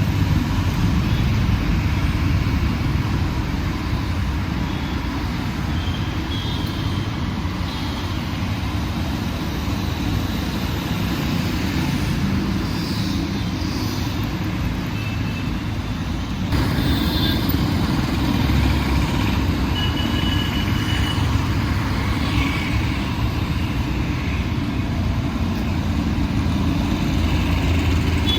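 Steady city road traffic: engines and tyres of passing cars, buses and trucks, heaviest in the low rumble, with a few brief faint high tones through it. The level steps up suddenly a little past halfway.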